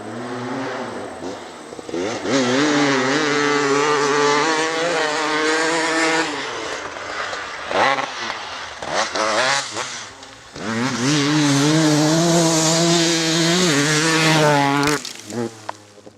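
KTM 300 EXC's single-cylinder two-stroke engine revving: it climbs and holds at high revs, drops back with sharp crackles around the middle, revs up and holds again, then falls away near the end.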